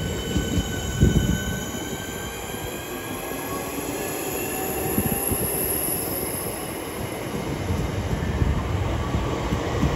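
Southeastern Class 465 Networker electric multiple unit moving through the station, a set of steady whining tones falling slowly in pitch over low rumble, with a sharp thump about a second in.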